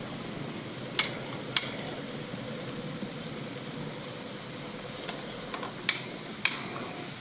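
Four sharp knocks in two pairs, one pair about a second in and the other near the end, over a steady background of passing traffic.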